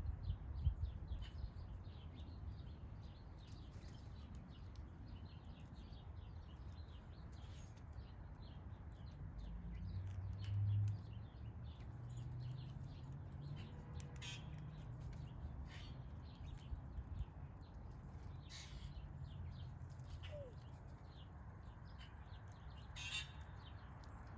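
Backyard birds chirping and calling over and over, with a few louder, harsher calls, over a steady low rumble; a brief louder low rumble comes about ten seconds in.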